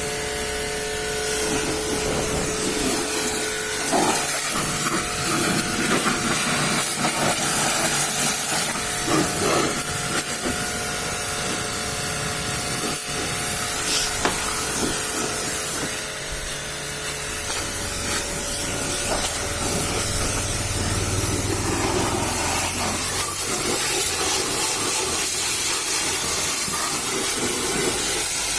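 High-pressure water jet spraying a truck, a steady hiss of water on the body, with a few sharp knocks along the way.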